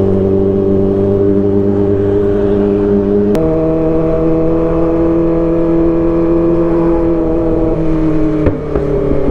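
Kawasaki ZX-25R's four-cylinder engine through an Arrow Pro Race exhaust, running at low, steady revs while riding. A sharp click comes about a third of the way in as the engine note steps to a new pitch, as at a gear change.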